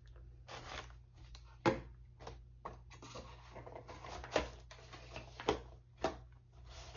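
Makeup items and small packaging being handled: a string of light taps and clicks with soft rustling between them, over a steady low hum.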